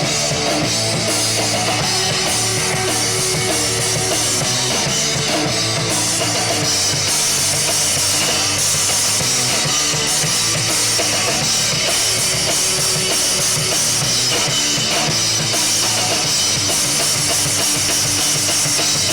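Live rock band playing an instrumental stretch of a song: full drum kit with bass drum and snare under amplified instruments, loud and steady, with no singing.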